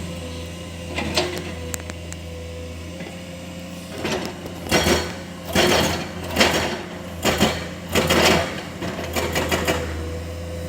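Excavator's engine running steadily, with a string of short, irregular scraping, crunching bursts from its bucket working rock, most of them in the second half.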